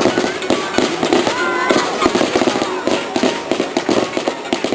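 Starmine fireworks barrage: a rapid, continuous run of bangs and crackling bursts.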